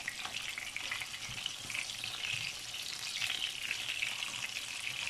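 Meat patties frying in shallow hot oil, a steady sizzle and crackle, while they are turned over one by one with a silicone spatula.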